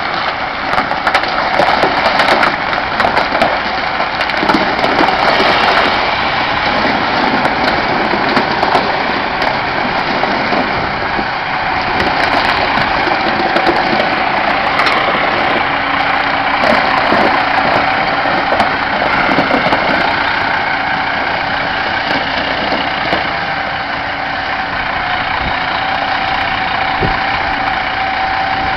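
Truck engine running steadily at low speed while the truck backs up, with a steady high whine over the engine note.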